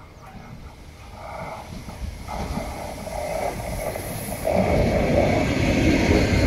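Renfe 449-series electric multiple unit approaching round a curve: the rumble of its wheels on the rails grows steadily louder as it draws near, stepping up sharply about four and a half seconds in.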